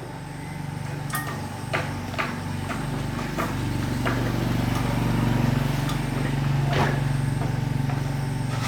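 Small 8 HP four-stroke diesel engine running steadily, growing louder about half a second in, with a few sharp clicks or knocks over it.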